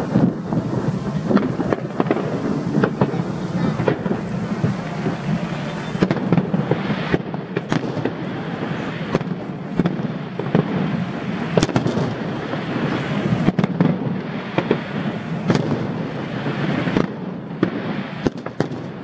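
Aerial fireworks display: a dense, continuous barrage of bangs and crackling, many shells bursting in quick succession.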